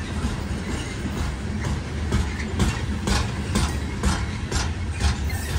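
BNSF coal train rolling past with a steady low rumble; from about two seconds in, its wheels click over rail joints about twice a second.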